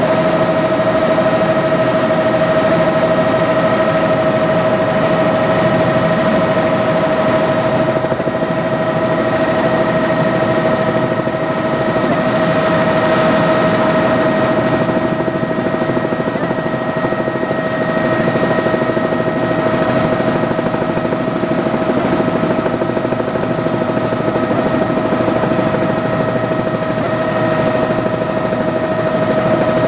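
Helicopter running steadily: a constant high engine whine over a fast, even beat from the rotors.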